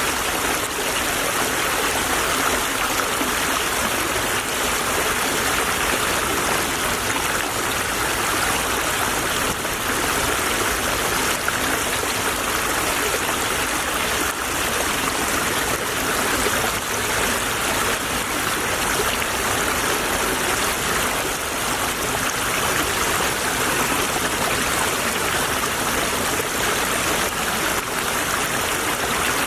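Small stream flowing and babbling steadily over stones, an even rush of water with no change.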